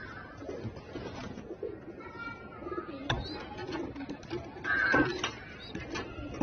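Domestic pigeons cooing, soft low calls repeating, with a few sharp clicks and a brief louder noise about five seconds in.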